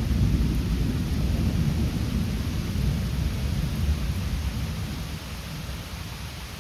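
Thunder rumbling low and slowly fading away, over a hiss of rain.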